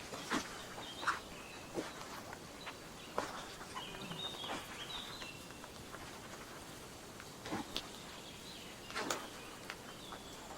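Footsteps crunching on forest-floor leaf litter, one crunch every second or so at an uneven pace, over a steady outdoor hiss. Short high bird chirps come in about a second in, again around four seconds in, and near the end.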